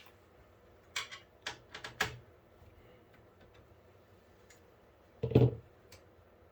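Working on a PC case's fan rail with a screwdriver: a cluster of small, sharp clicks and taps about a second in, then one louder knock about five seconds in.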